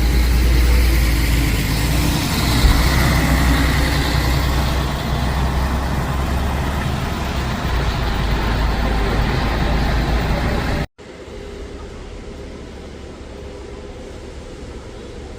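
Bus engine and road noise close by: a loud, steady low rumble with a hiss of tyres and traffic. It cuts off abruptly about eleven seconds in, giving way to quieter traffic noise.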